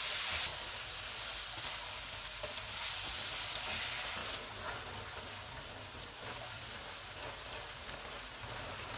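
Beef mince and onions sizzling in hot oil in a non-stick wok while being stirred with a slotted spatula, the mince browning until it changes colour. The sizzle is stronger in the first half and softens after about four seconds.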